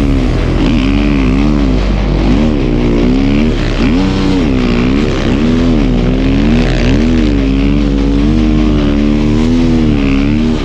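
Snow bike engine revving up and down over and over, about once a second, as it is ridden through deep snow.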